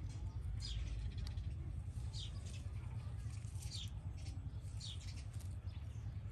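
A bird calling: four short, high chirps that fall in pitch, about one every second and a half. Under them runs a steady low rumble on the microphone.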